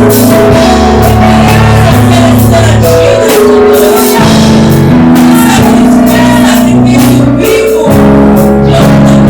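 Live worship band music with a sung melody over bass, keys, guitar and a steady drum beat.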